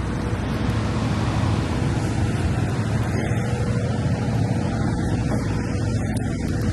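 Semi truck's diesel engine running steadily, an even low hum with a faint steady tone above it.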